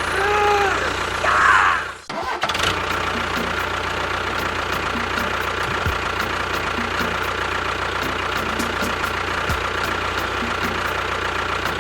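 Small motor of a miniature model tractor running steadily with a thin whine and faint regular ticking. Two short pitched glides sound in the first two seconds, and the sound breaks off briefly about two seconds in.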